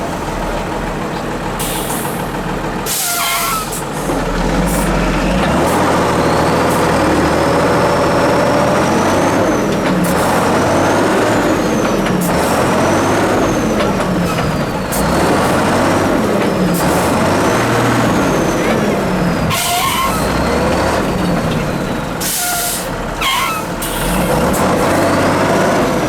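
Heavy off-road trial truck engine revving up and down repeatedly under load, with a high whistle rising and falling with the revs. Several short sharp hisses of air-brake air release come through, about two seconds in, near twenty seconds and a few times near the end.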